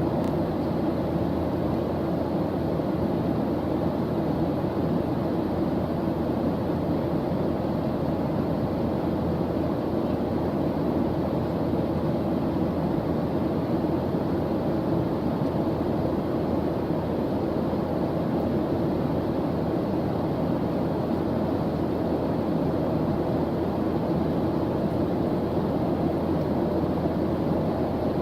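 Steady white-noise background track: an even, low-pitched rushing hiss with no pattering or changes.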